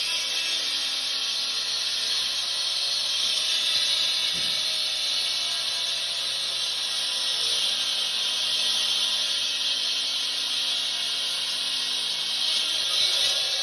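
Handheld concrete saw running at a steady speed, its noise a continuous high hiss that does not let up.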